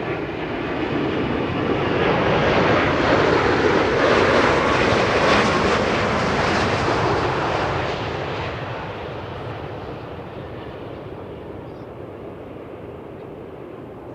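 Boeing 787-9 airliner's Rolls-Royce Trent 1000 turbofans on landing: a steady jet rush that swells to its loudest about four to six seconds in as the aircraft passes, then fades away.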